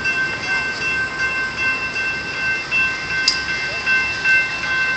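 Railroad crossing with a train: several high, steady tones held together, with a sharp click about three seconds in.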